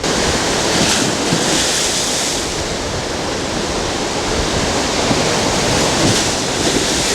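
Rough lake waves surging and breaking on the shore, loud and steady, with strong wind buffeting the microphone.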